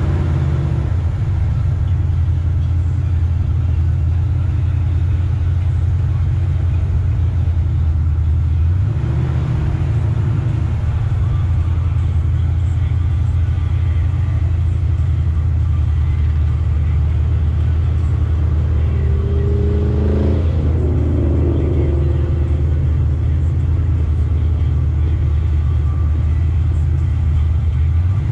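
Chevrolet Nova's engine and exhaust running with a deep, steady rumble at low speed in crawling traffic. The pitch steps up slightly about nine seconds in, and a brief rising tone comes through around twenty seconds in.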